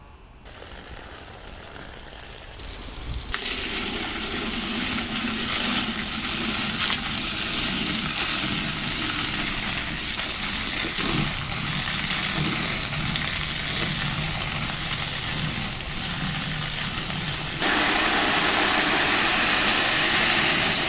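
A steady hissing, rushing noise starts about three seconds in and becomes louder and brighter near the end.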